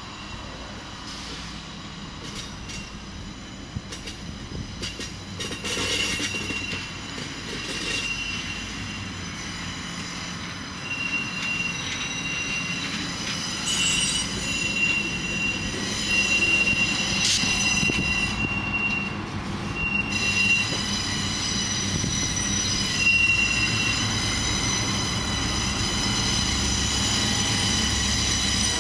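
Passenger cars rolling slowly around a curve, their wheel flanges squealing against the rail in a thin high tone that comes and goes, with an occasional clack of wheels over the rail. Near the end the rumble grows louder as the Pennsylvania Railroad diesel locomotive at the rear of the train comes past.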